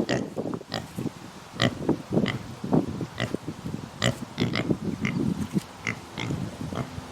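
Pigs grunting in a quick run of short calls, some with sharp, higher-pitched squeaky notes mixed in.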